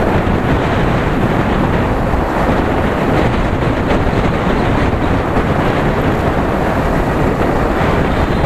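Steady rush of wind on the microphone mixed with the running engine and road noise of a Yamaha R15 V3 motorcycle being ridden at speed.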